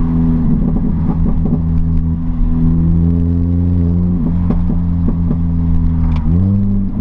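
Exhaust of an R53 Mini Cooper S's supercharged 1.6-litre four-cylinder, straight-piped with the muffler deleted, running loud and steady at cruising revs, its pitch climbing near the end.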